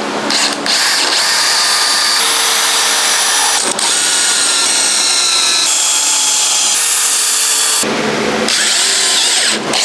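Power drill running in several spells at shifting speed, driving exterior screws into wooden braces.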